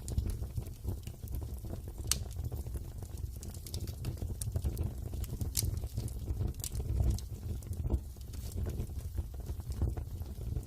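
Wood fire burning in a fireplace: a steady low rumble with a light crackle and a few sharp pops, the loudest about two seconds in and others past the middle.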